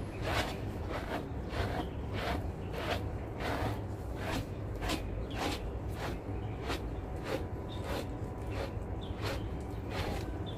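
Rhythmic rubbing strokes, about two a second, from hands scrubbing a golden retriever's fur.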